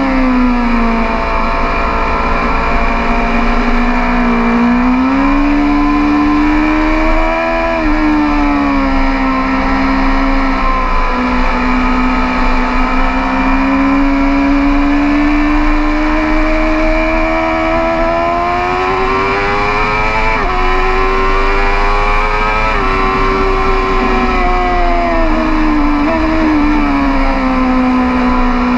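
BMW S 1000 RR's inline-four engine at racing speed, recorded onboard, its pitch climbing and falling as the rider accelerates and brakes. It drops sharply at several gear changes, about eleven, twenty and twenty-six seconds in.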